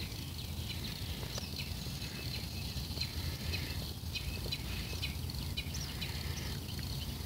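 Small birds chirping in short, irregular calls over a steady low outdoor rumble.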